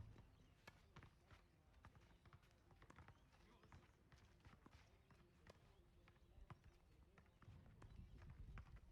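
Near silence with faint, irregular taps and clicks on a tennis court: a tennis ball bouncing and being hit, and players' shoes moving on the court.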